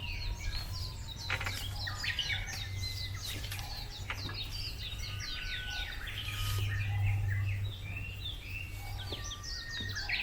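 Small birds chirping and calling continually in many short, quick notes, over a low steady hum that grows louder about six seconds in.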